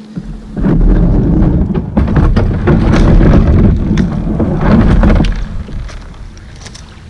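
Loud rumbling and crackling on the camera microphone, with many sharp knocks and clicks, starting about half a second in and easing off near the end.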